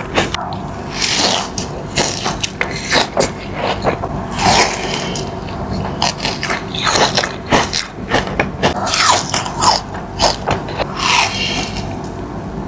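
Close-up chewing and biting of a Dubai chewy cookie, with irregular crisp crunching crackles several times a second.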